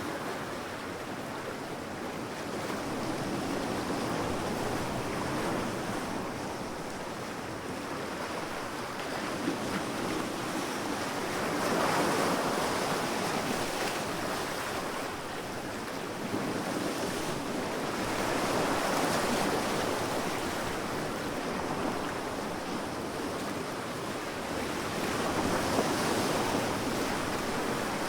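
Sea waves breaking and washing up a beach, a continuous surf hiss that swells and ebbs about every seven seconds.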